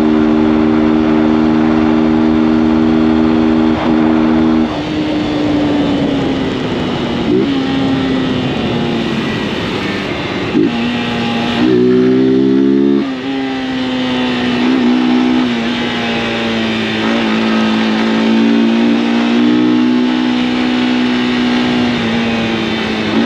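Honda CG 160 Fan single-cylinder four-stroke engine on the move. It holds a steady high note for a few seconds, then drops in pitch and settles lower. Brief swoops in the engine note come through gear changes, with a louder burst of throttle just before the middle. Wind rush runs underneath.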